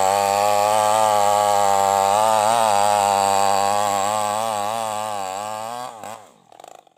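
New West 588 two-stroke chainsaw running, its pitch wavering up and down as it works. It gets quieter, then drops away about six seconds in, its note sliding down as it stops.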